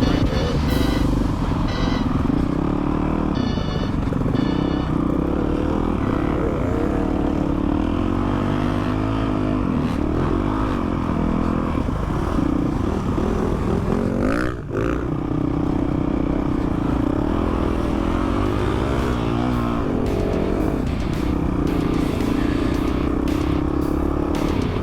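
Dirt bike engine running under way, its pitch rising and falling with the throttle. The sound breaks off briefly about halfway through, then the engine carries on.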